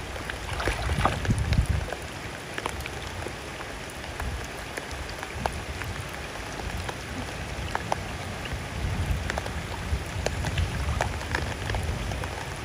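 Pouring rain: a steady hiss of rain peppered with many sharp drop ticks, over a low rumble that swells now and then.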